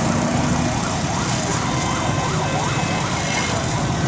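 Emergency vehicle siren wailing in a fast yelp, its pitch sweeping up and down several times a second, over steady background noise.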